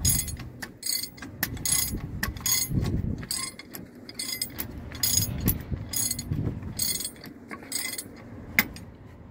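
Hand ratchet wrench worked back and forth on the nut of a truck's steering drag link, a short burst of clicks about twice a second. The strokes stop near the end, followed by one sharp click.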